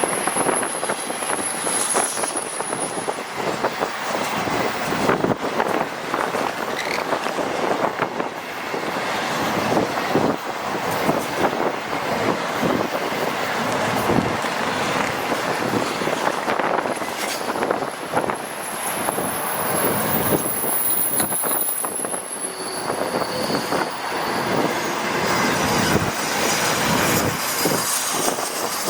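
Freight train cars rolling past close by: steady wheel-on-rail noise with rapid clatter, and high-pitched wheel squeal near the start and again about two-thirds of the way through.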